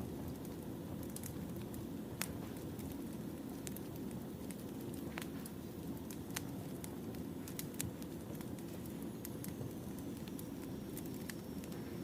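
Wood fire crackling: irregular sharp pops and snaps of burning logs over a steady low rush of flame.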